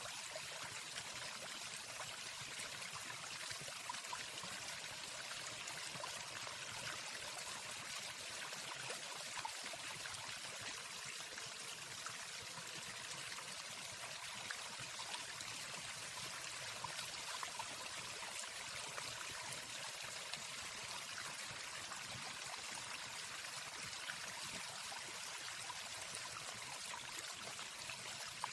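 Waterfall rushing in a steady, even wash of water noise, with no birdsong.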